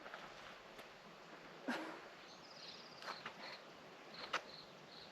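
Faint insect chirping, a regular series of short high chirps about three a second, starting about halfway through. A few footsteps crunch on the rocky trail.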